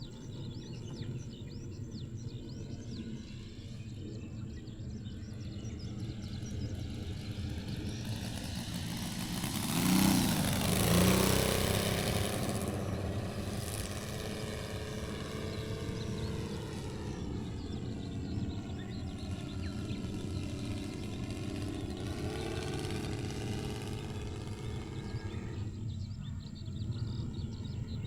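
Saito FG-60R3 three-cylinder four-stroke radial engine of a quarter-scale radio-control Sopwith Pup, in flight and driving a 22x10 propeller. The engine note swells to its loudest about ten seconds in as the plane passes close, then drops in pitch and fades as it flies away.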